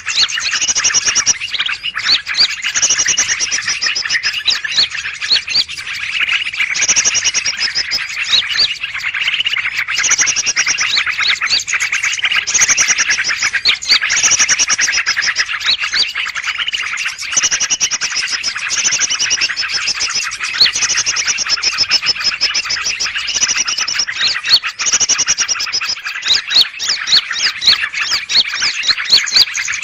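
Dense chorus of many small birds chirping and chattering at once, with high whistled phrases recurring every couple of seconds: a 'noisy birds' lure recording used by bird trappers to draw in greater green leafbirds.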